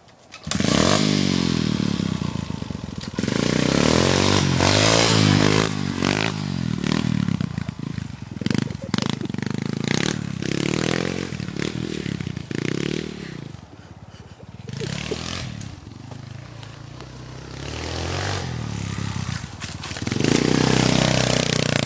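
Pit bike engine revving up and down repeatedly as it is ridden hard, with scattered knocks and rattles. The revs ease off about two-thirds of the way through and surge again near the end.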